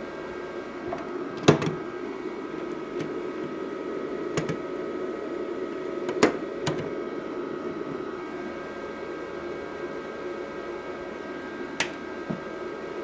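Semi-automatic (MIG) welding machine running with a steady hum of several fixed tones, broken by four sharp clicks.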